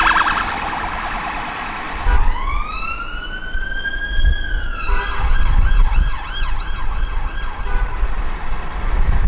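Emergency vehicle sirens: a fast yelp fading at the start, then a siren that rises in a long wail, holds high, and about halfway through switches to a rapid yelp, over the low rumble of traffic.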